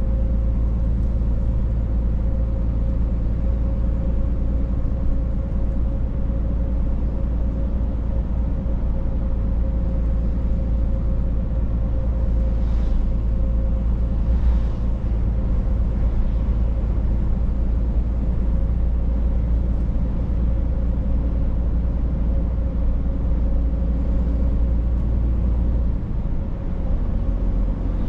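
Scania truck on the move: a steady low engine and road drone with a constant hum, and two faint brief hisses about halfway.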